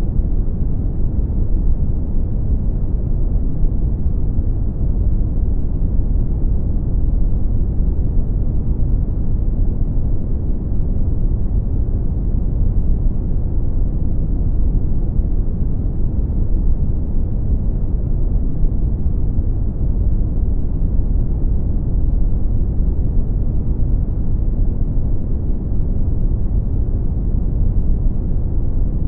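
Brown noise: a steady, deep rumbling hiss with most of its energy in the low end and little above the midrange, unchanging throughout.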